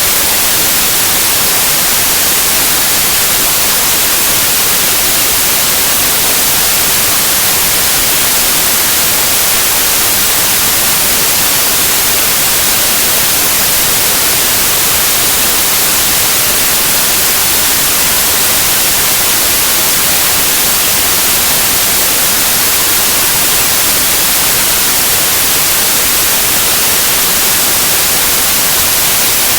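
Steady white noise: an even, unchanging hiss, bright and strongest in the high frequencies, with no tones or breaks.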